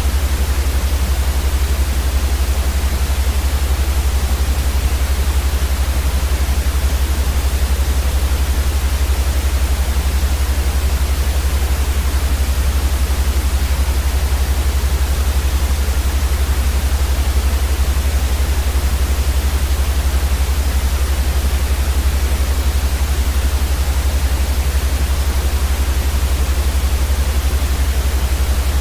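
Steady white noise for sleep, an even hiss across all pitches with a strong deep rumble underneath, unchanging throughout.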